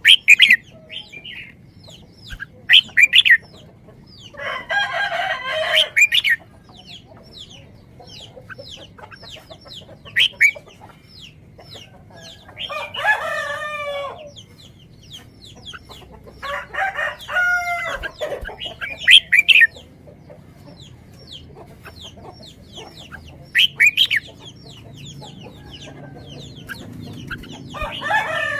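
Birds calling: four long calls of about a second and a half each, with many short high chirps and a few sharp, loud single calls between them.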